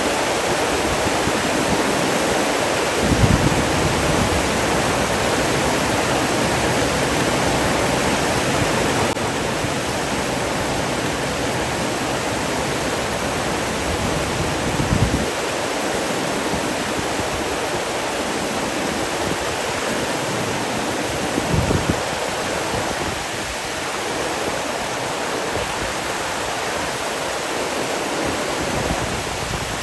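Steady rushing of flowing water, like a waterfall or fast stream, with a few brief low thumps about 3, 15 and 21 seconds in.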